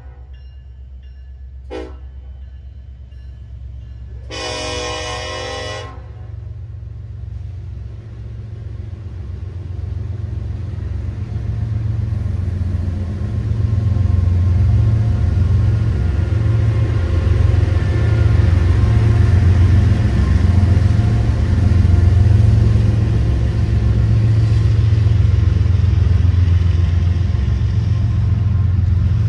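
Diesel locomotive air horn gives a short toot about two seconds in and a longer blast a couple of seconds later. Then the low rumble of Union Pacific diesel locomotives and a double-stack container train rolling by close builds up and stays loud.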